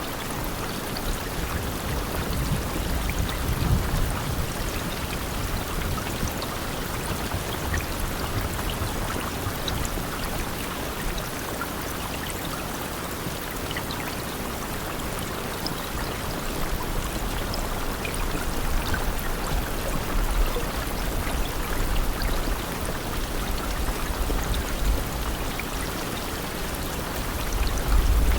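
Steady rain falling: a dense even hiss with scattered small drop ticks. A low rumble underneath swells about three seconds in and again through the second half.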